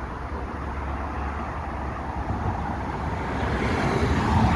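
Street traffic noise: a steady rumble of passing vehicles, swelling near the end as one goes by close.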